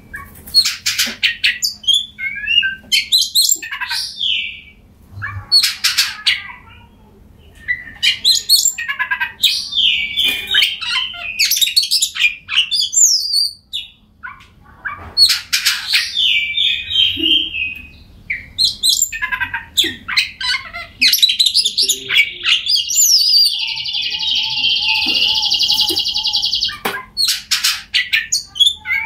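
Oriental magpie-robin singing: a fast run of varied whistled and chattering phrases broken by short pauses, with a long, even trill of about five seconds about two-thirds of the way through.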